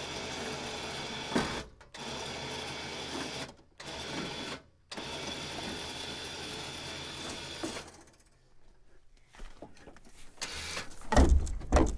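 Electric winch on a four-wheeler running with a steady whine, reeling in cable under load to tilt a big truck's heavy hood open, in several runs with brief stops. After it stops, a few low thumps near the end.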